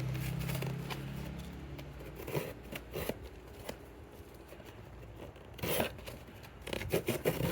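Cardboard box being cut and torn open, with snips, scrapes and rustling in scattered bursts, louder about six seconds in and near the end. A low steady hum fades out over the first couple of seconds.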